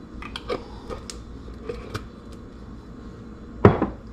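Kitchen handling sounds from a jar and utensils while honey mustard is mixed: a few light clicks and taps, then one louder knock about three and a half seconds in, over a steady low hum.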